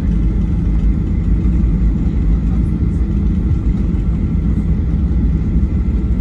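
Steady low rumble inside the cabin of a Boeing 737-800 rolling on the ground after landing: its CFM56 engines running at low power with the noise of the airframe and wheels.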